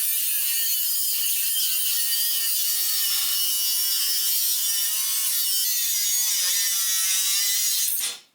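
Power tool cutting through a steel frame: a loud, steady high whine and hiss whose pitch wavers as the cut loads the motor, stopping abruptly near the end.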